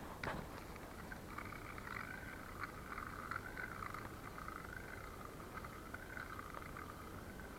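A chorus of frogs croaking, a steady wavering trill that comes in about a second in. A knock is heard at the very start.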